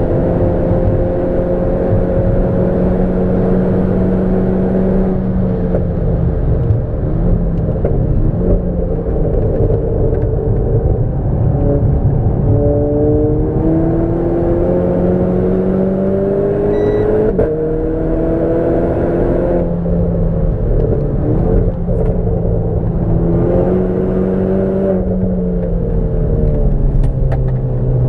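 Renault Clio 4 RS's turbocharged 1.6-litre four-cylinder engine being driven hard: its note climbs under acceleration, drops sharply at gear changes and falls away off the throttle, several times over.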